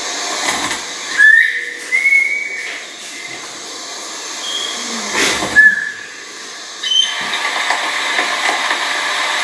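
Blue-winged pitta giving clear whistled calls: a short note followed by a longer, slightly higher one, then another short whistle a few seconds later. A brief loud rustling burst comes just before the last call, and a steady hiss sets in near the end.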